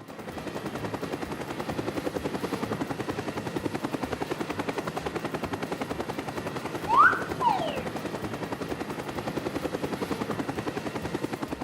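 Steady, rapid mechanical chopping sound effect, about eight pulses a second. About seven seconds in come two short whistle-like glides, one rising and one falling.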